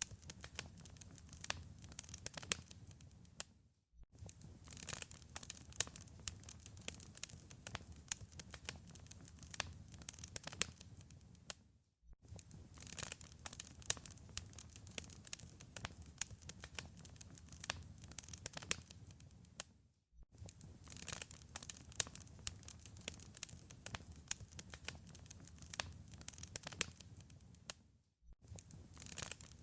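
Fireplace wood fire crackling: a dense run of sharp pops and snaps over a soft hiss. It drops out to brief silence about every eight seconds.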